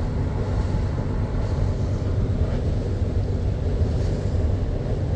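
Cruise boat's engines droning steadily, a low hum with a pitched, even tone under noise.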